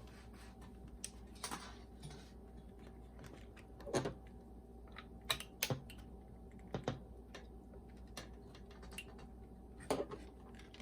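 A series of separate clicks and knocks, the loudest about 4 s and 10 s in, from handling the boombox's cassette deck and controls as it is readied for a test after a belt replacement.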